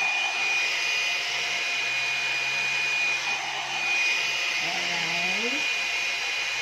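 One-step hot-air hair dryer brush running steadily on its low setting: a rush of blown air with a steady high whine from the motor.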